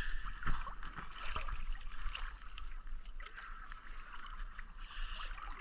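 Seawater sloshing and splashing around people moving through the water, over a steady low rumble.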